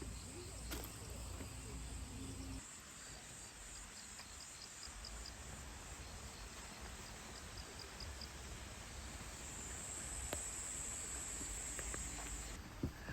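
Insects, such as crickets, trilling steadily at a high pitch, with short runs of quick chirps. Some low rumble sits under them at first and stops suddenly about two and a half seconds in; the high trilling grows louder near the end, then cuts off abruptly.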